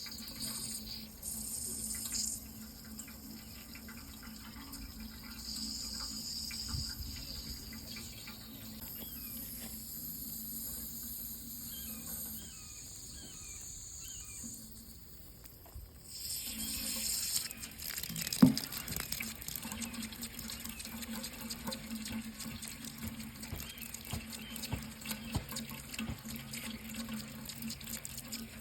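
Water running from a tap into a sink in a steady stream, over a faint steady hum. The flow thins out briefly about sixteen seconds in, then comes back stronger, with one sharp click a couple of seconds later.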